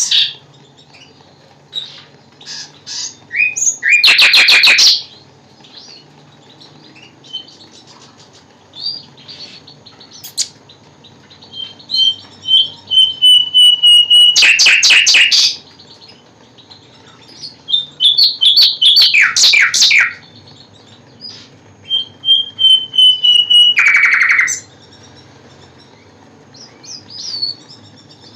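Nightingale singing. Loud, harsh bursts of rapid notes come roughly every five seconds, with long clear whistled notes and softer chirps between them.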